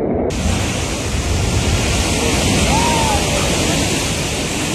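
Steady rushing noise of surf and wind on the microphone. The hiss grows brighter abruptly just after the start, and a faint short whistle-like tone rises and falls about halfway through.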